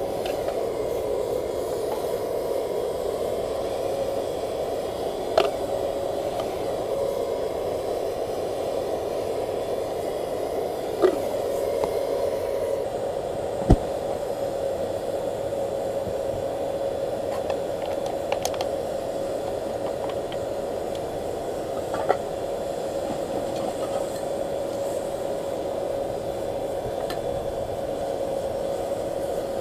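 Air blower feeding a charcoal-fired paint-can melting furnace, running with a steady whine over rushing air, with a few sharp clicks or knocks now and then.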